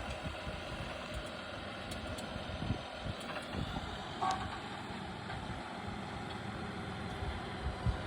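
Off-road Jeep engine running steadily, with irregular low thumps and a short pitched beep about four seconds in.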